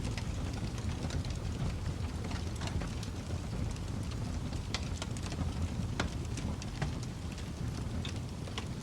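Wood fire burning in a fireplace: a steady low rush of flames with irregular sharp crackles and pops scattered throughout, a few louder ones in the second half.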